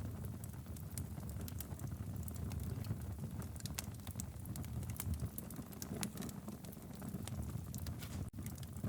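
Wood fire crackling in a fireplace: dense, irregular sharp pops and snaps over a steady low rumble of flame. The sound cuts out for an instant near the end.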